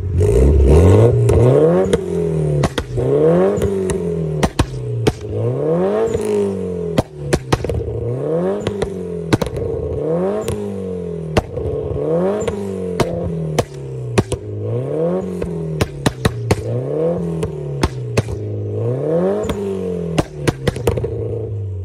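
Mitsubishi Lancer Evolution IX MR's turbocharged 4G63 inline-four revved repeatedly while standing, its pitch rising and falling about every two seconds. The exhaust cracks and pops through the revs, most often as the revs drop.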